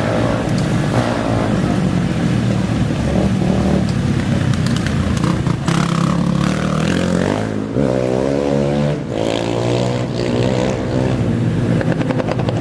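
Off-road racing dirt bike and quad engines running loud, with one engine revving up and accelerating in a rising pitch from about seven and a half seconds in, sweeping up again just after nine seconds.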